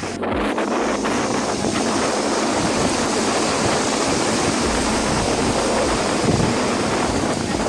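Steady, dense rushing noise of a storm, with wind buffeting the microphone; it starts abruptly.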